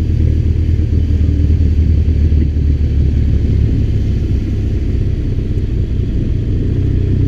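BMW R 1200 RT's boxer-twin engine running steadily while the motorcycle is ridden, a low even drone.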